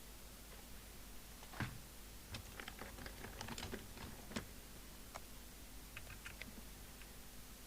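Scattered light clicks and taps of tools and equipment being handled on a radio service bench, with a sharper knock about one and a half seconds in and another about four seconds in, over a faint steady hum.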